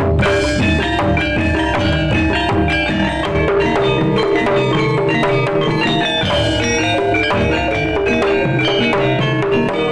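Jaranan-style ensemble music: kendang drums played in a jaipong pattern under metallophones ringing many short notes.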